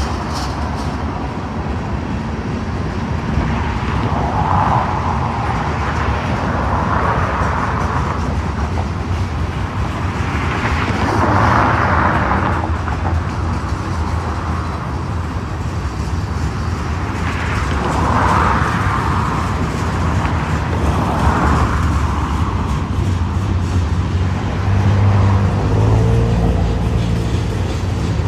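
Freight cars of a Union Pacific manifest train rolling past: a steady low rumble of wheels on rail, with swells of rushing noise every few seconds and a low hum near the end.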